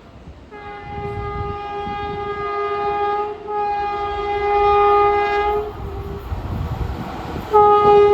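Locomotive horn sounding two long blasts, then a third starting near the end, over the low rumble of the train.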